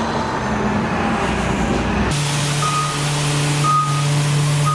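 City bus pulling in with its engine running; about two seconds in, a steady hiss of air sets in, and short high beeps sound about once a second.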